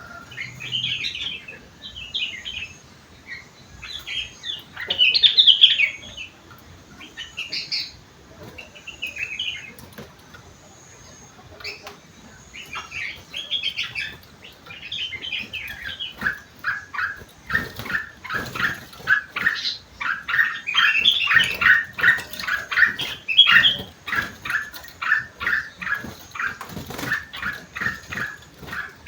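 Sooty-headed bulbul (kutilang) singing, its song filled with mimicked leafbird (cucak wilis / rengganis) phrases: short, quick chirping phrases at first, then about halfway through a fast run of repeated notes, several a second, with higher warbling over them.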